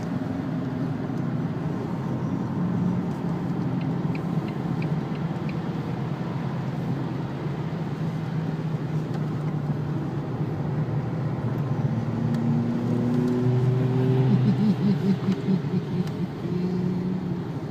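Cabin noise of a Renault Laguna 2-litre turbo diesel wagon driving on a wet track: a steady engine and road drone. From about twelve seconds in it grows louder, with rising engine tones as other cars accelerate past to overtake.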